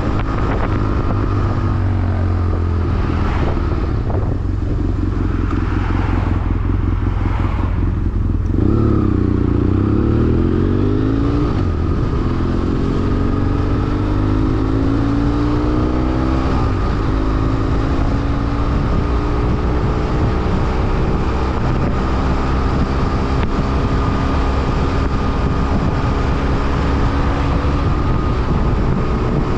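BMW F800R's parallel-twin engine under way, with wind noise. Its pitch falls as the bike slows in the first few seconds, then climbs through the gears, dropping back at each upshift about nine, twelve and seventeen seconds in, before a long, gradual climb.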